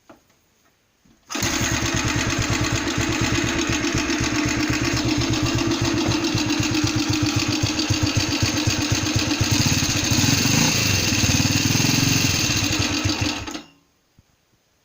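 Freshly rebuilt NSU Pretis 175 engine catching and running steadily, firing in an even rhythm for about twelve seconds, then shut off abruptly.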